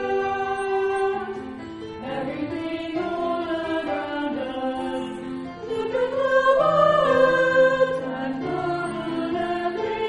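Choir singing slow sacred music in held chords, swelling louder about six seconds in.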